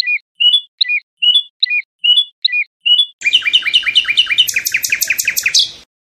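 A songbird singing: about ten short two-note phrases, repeated about three a second, then around three seconds in a fast, louder run of sharp rising notes that stops suddenly near the end.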